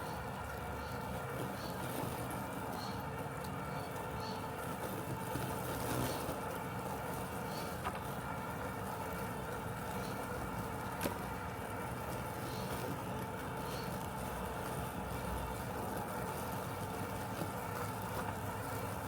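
Robotic lawn mower running steadily, a constant mechanical hum. Faint high ticks repeat about once a second, and there are two sharp clicks, near 8 and 11 seconds in.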